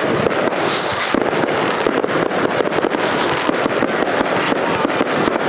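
Fireworks crackling: a dense, continuous stream of many small pops and bangs with no let-up.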